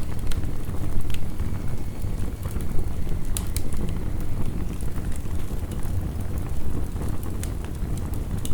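Heavy rain as a steady deep rumble, with a wood fire crackling in irregular sharp pops.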